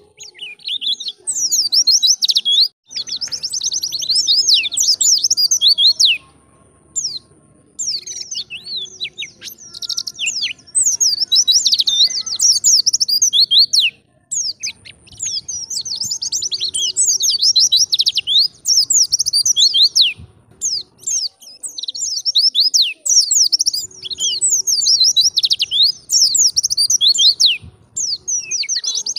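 White-eye (pleci) singing a fast, twittering song of high chirps, in runs of several seconds with short breaks between.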